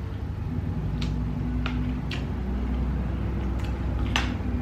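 A handful of short, sharp clicks, about five spread unevenly, the last the strongest, over a low steady hum.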